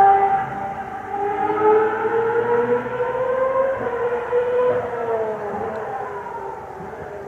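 Ferrari racing car's high-revving engine on the circuit, its note rising and falling in pitch with the throttle and gear changes and gradually fading as the car moves away.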